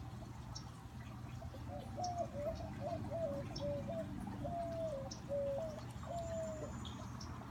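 A bird calling a run of about eight short, low cooing notes, each dropping in pitch, from about two seconds in until near the end, over the steady trickle of a backyard fountain, with faint high chirps of small birds.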